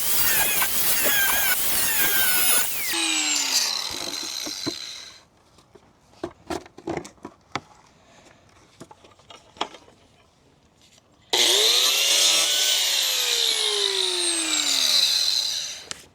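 Handheld power tool cutting a plastic 5-gallon bucket. About three seconds in, its motor winds down with a falling whine, followed by a few light handling clicks. About eleven seconds in it starts again, runs for about four seconds, and winds down once more.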